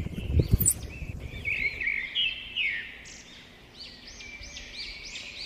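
Small birds chirping in a quick run of short, high calls. A few knocks from a wooden gate's metal latch being worked come right at the start.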